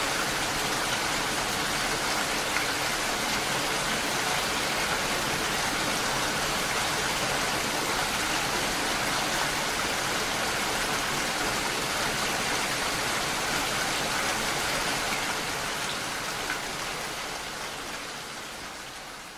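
Steady rain falling, an even hiss with the patter of scattered drops, fading out gradually over the last few seconds.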